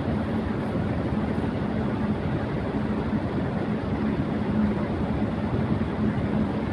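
Electric fan running at high speed: a steady whoosh of moving air with a low, constant motor hum.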